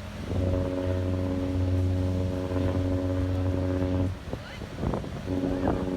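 A cruise ship's horn sounding as the ship departs: one long, deep blast of about four seconds, then a second blast starting about a second later.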